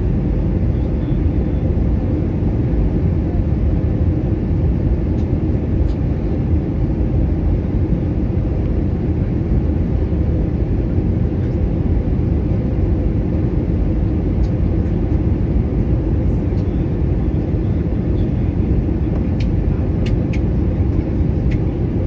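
Steady roar of an Airbus A320 in flight, engine and airflow noise heard as a constant low rumble with a faint steady hum in it. A few faint clicks come near the end.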